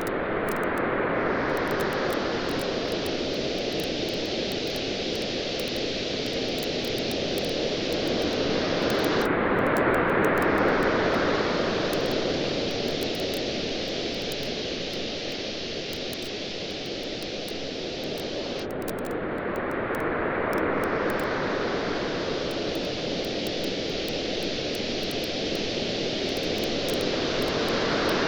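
Surf washing in over a steady rushing hiss, swelling about every ten seconds, with faint crackling from a beach bonfire.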